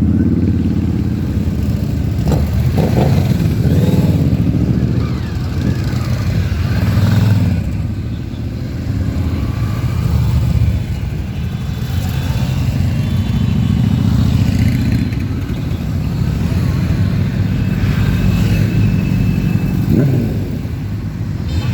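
A stream of motorcycles riding past, engines running continuously, with a few revs rising in pitch, one about three seconds in and another near the end.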